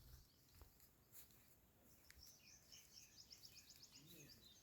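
Faint birdsong: scattered high chirps, and about three seconds in a rapid high trill of roughly ten notes a second lasting about a second.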